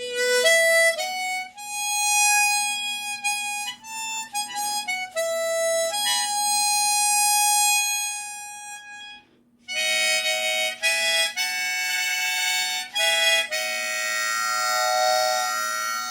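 Harmonica playing a slow melodic phrase in single notes, then, after a short break about nine seconds in, a second phrase played in two-note chords.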